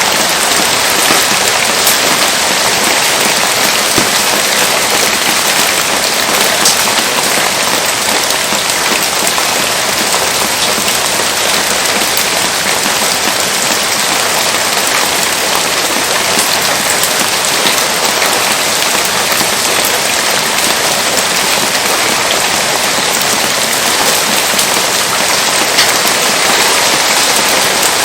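Heavy rain falling steadily, a dense, even patter of countless drops with no letup.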